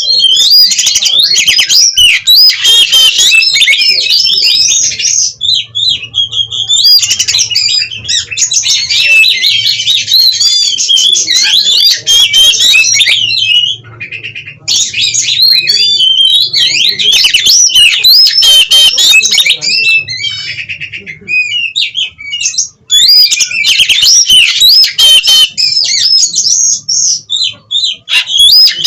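Oriental magpie-robin (kacer) singing loudly and continuously: a fast, varied song of whistles, warbles and harsh notes, with brief breaks about halfway through and again about three-quarters of the way in.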